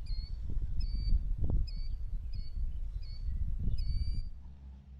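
A small bird chirping over and over, short identical chirps about twice a second, over wind buffeting the microphone with a low, gusting rumble; both fade out a little after four seconds in.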